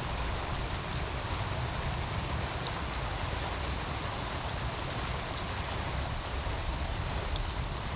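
Steady rush of a flowing meltwater stream with a low rumble underneath, over which an outdoor wood fire crackles in scattered sharp pops.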